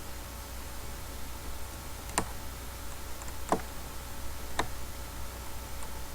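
Three sharp computer mouse clicks, a second or so apart, over a steady low hum.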